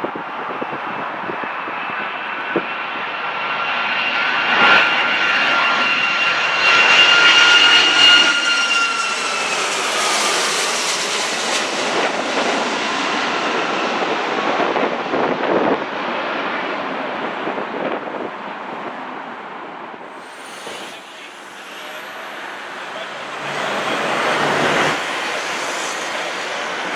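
Jet airliner's engines passing close by: the roar builds to a peak about eight seconds in while a steady engine whine holds its pitch, then the whine drops in pitch as the aircraft goes past and the roar fades.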